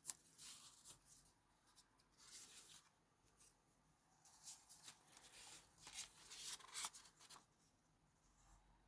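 Faint, intermittent rustling and brushing of paper pages being handled and arranged, with a sharp little tap right at the start.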